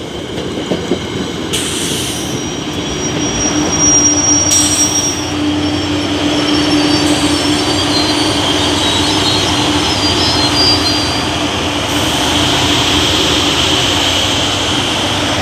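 Passenger train running close by at the station platform, loud: a steady rumble of wheels on rail with a low steady hum, and thin high-pitched wheel squeals that come and go.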